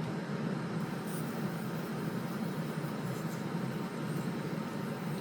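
Steady, unbroken mechanical running noise at an even level, with no strokes or changes.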